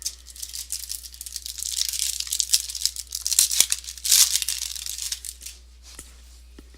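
Foil wrapper of a trading-card pack being torn open and crinkled: a crackly, rustling tear for about five seconds, loudest just past the middle, then a couple of small ticks.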